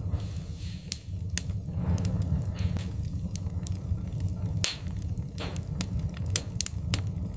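Wood-burning fire crackling: scattered sharp pops and snaps over a steady low rumble.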